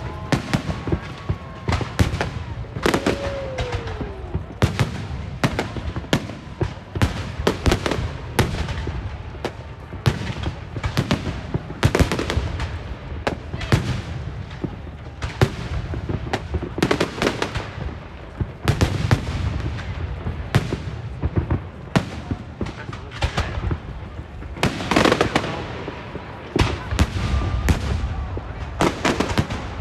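Fireworks and firecrackers going off in a rapid, irregular string of sharp bangs, one or two a second and sometimes several close together.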